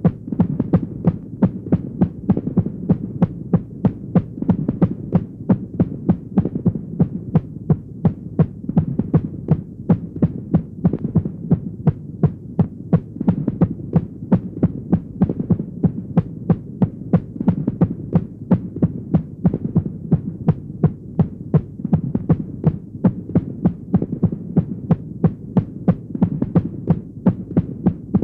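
Horror sound effect: a steady, even pulse of sharp beats, about two a second, heartbeat-like, over a continuous low droning hum.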